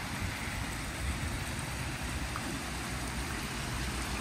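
Steady rush of storm floodwater running across a road and into an overwhelmed drain grid, with a low rumble under it.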